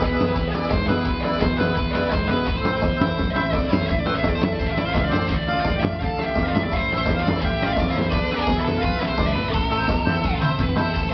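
Live band music played loud and continuously, with held pitched notes over a steady low beat.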